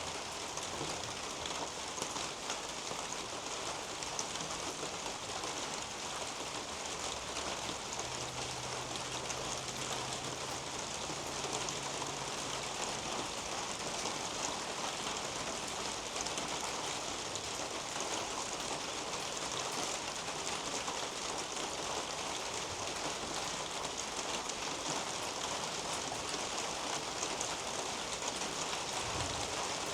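Steady rain falling on a leafy garden canopy and the roof above, with many small drops pattering close by. A faint low drone sits under the rain for a few seconds in the middle.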